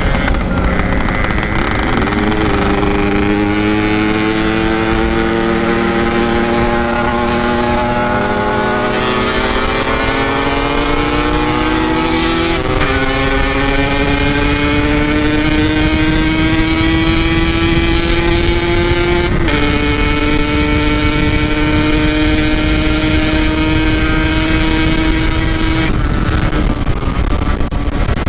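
Yamaha RX-King's 135 cc two-stroke single running at speed, its exhaust note climbing slowly through the gears with two upshifts where the pitch drops, then easing off near the end. Steady wind rumble runs underneath.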